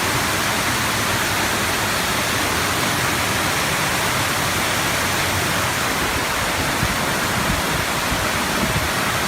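Floodwater pouring down like a waterfall into a flooded train station, a steady rushing of water.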